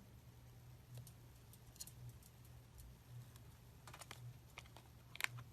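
Near silence: faint scattered clicks and ticks over a low hum that swells about once a second, with a quick run of clicks near the end.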